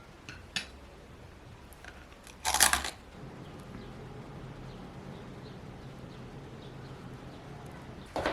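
Household handling noises: a few light clicks, then a short crunching rustle about two and a half seconds in, followed by a faint low steady hum.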